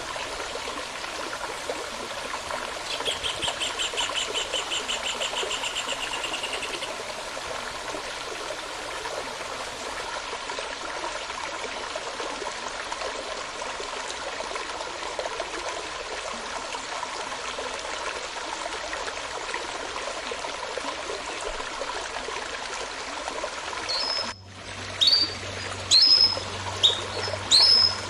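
Running stream, a steady babble of water, with a fast, even trill lasting about three seconds from some three seconds in. Near the end the sound cuts to a songbird's loud, short, high notes, repeated about once a second.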